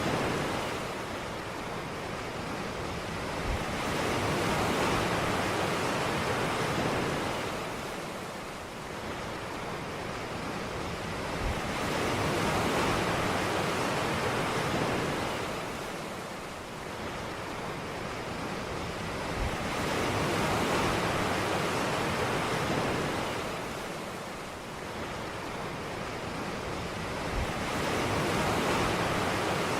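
Ocean surf: waves breaking and washing up the shore, swelling about every eight seconds, each swell starting with a faint low thud.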